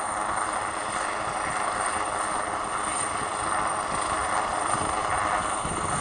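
Rescue helicopter hovering, a steady drone of rotor and engine, mixed with wind on the microphone.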